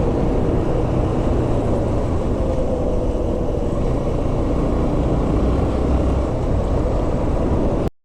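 Motorcycle on the move: its engine running steadily under heavy wind rumble on the mic. Cuts off abruptly near the end.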